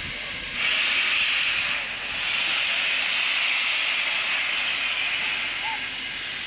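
Steam locomotive venting steam in a steady hiss, which grows louder about half a second in and then holds.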